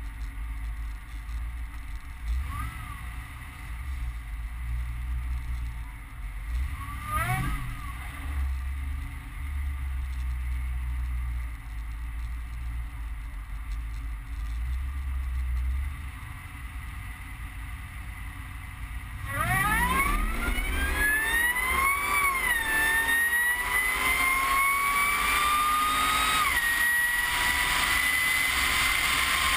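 Supercharged LQ4 6.0-litre V8 in a 2007 Chevrolet Z71 pickup, rumbling low with a couple of short revs. About two-thirds of the way through it goes to hard acceleration and gets louder. The Magnuson TVS1900 supercharger whine rises in pitch, falls back at each of two automatic upshifts, then climbs again.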